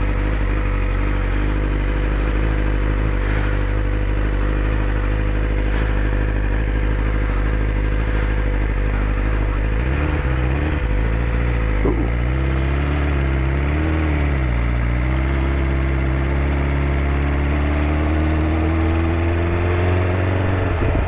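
2020 BMW S1000RR's inline-four engine on its stock exhaust, heard while riding. It runs at a steady pitch for about ten seconds, rises and falls through gear changes, then climbs steadily under acceleration near the end.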